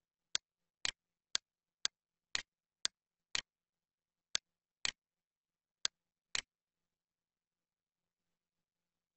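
Computer mouse clicking: eleven sharp, single clicks, mostly about half a second apart.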